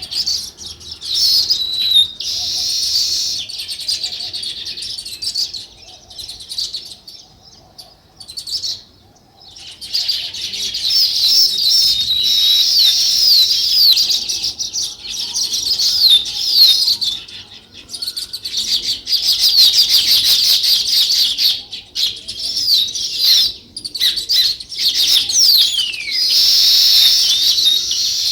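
House sparrows chirping in a dense, overlapping chatter of short chirps, with a lull about six to nine seconds in.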